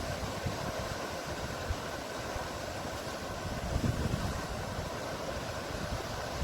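Steady, continuous rushing noise of the sea, with a low rumble of wind buffeting the microphone.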